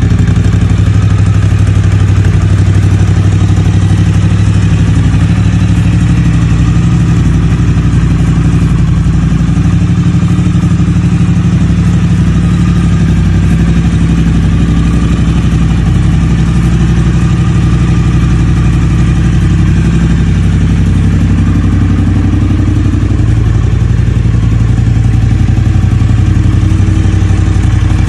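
Triumph Speed Twin 900's 900 cc parallel-twin engine idling steadily, with a slight shift in its note a little after twenty seconds in.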